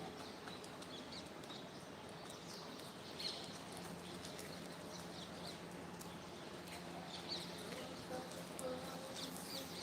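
Faint, scattered bird chirps over even background noise, with a low steady hum starting about four seconds in.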